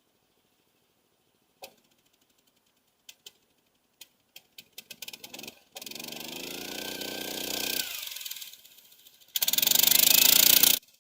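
A motorized snow tug's small engine gives a few isolated pops that come faster and faster, then catches and runs with a wavering pitch. Near the end it revs much louder and stops abruptly.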